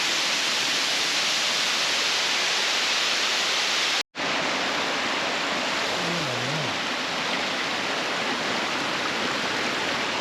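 Waterfall on a mountain stream rushing: a steady hiss of falling water. It cuts out for a split second about four seconds in.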